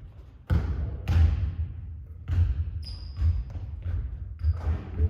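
A basketball bouncing on a hard court, a series of thuds with ringing after each, with a brief high squeak twice in the middle.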